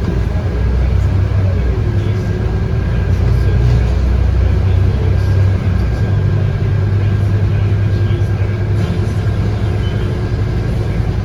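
Scania K230UB bus with its 8.9-litre five-cylinder DC9 diesel running, heard from inside the cabin: a steady low drone with a wavering whine above it that dips about two seconds in and then holds level.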